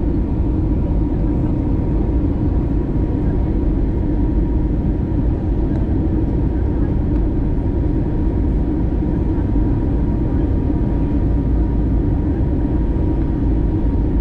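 Steady cabin noise inside an Airbus A321 with IAE V2533-A5 engines: a constant rumble of engines and airflow with a thin steady tone above it, unchanging throughout.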